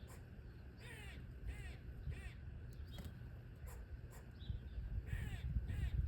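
A bird giving harsh, crow-like calls: three in quick succession in the first seconds and two more near the end, over a steady low rumble.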